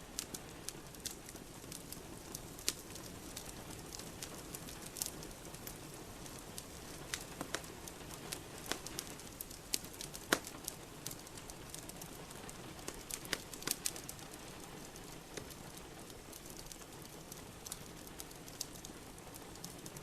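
Steady rain with a wood fire in a fireplace crackling, irregular sharp pops scattered throughout.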